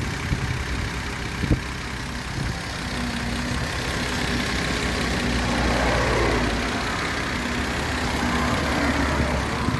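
1974 Mercedes-Benz 280S (W116)'s M110 2.8-litre twin-cam straight-six idling steadily, with one sharp click about a second and a half in and a slight swell in level around the middle.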